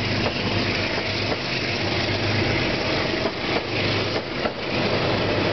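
Metro-North commuter train departing: a steady low engine hum with the rumble of the coaches rolling past, and a few wheel clicks near the end.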